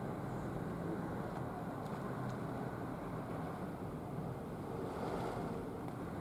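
Strong typhoon wind blowing over the microphone: a steady low noise with no distinct events.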